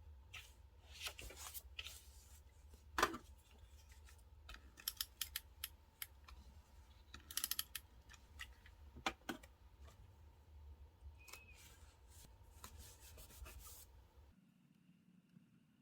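Scissors snipping and paper stickers being handled: small crisp clicks and quick runs of ticks with light rustling. The sharpest snip comes about three seconds in.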